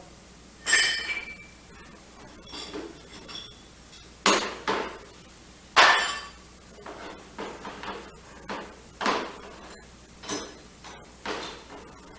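Metal tools and drill bits being handled and set down in a tool box, clanking and clinking with a short metallic ring, about eight irregular knocks over the stretch, the loudest three in the first half.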